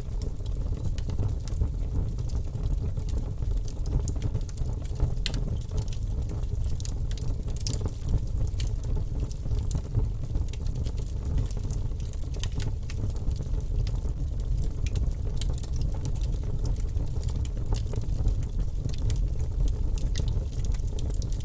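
Wood fire burning in a fireplace: a steady low rumble of flames with many scattered small crackles and pops.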